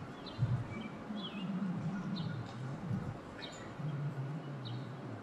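A small bird chirping: short, high chirps spaced about a second apart, over a faint low background sound.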